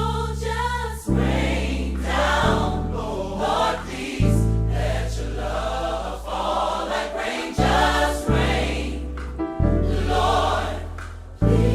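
Choir singing gospel worship music over held low chords that change every one to three seconds.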